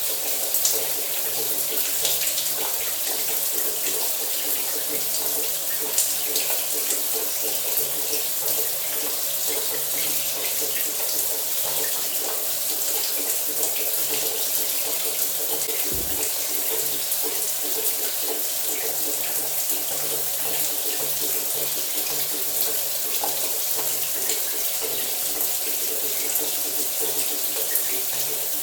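Shower running steadily: a dense, even spray of water with small irregular spatters, and a faint low hum underneath.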